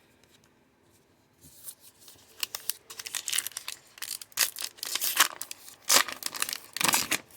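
A foil trading-card pack being torn open, its wrapper crinkling in irregular crackles that begin about a second and a half in.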